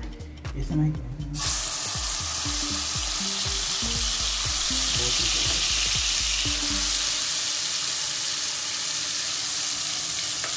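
Ginger-garlic paste frying in hot oil with cumin seeds in a nonstick kadai: a loud, steady sizzle that starts suddenly about a second and a half in as the paste hits the oil.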